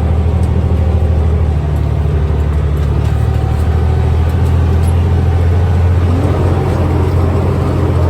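Log truck's diesel engine running steadily while the truck drives.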